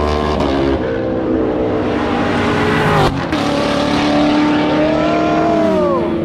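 Car engines revving hard: the pitch climbs, then drops about three seconds in. Another engine holds a steady note while a second pitch slides down near the end.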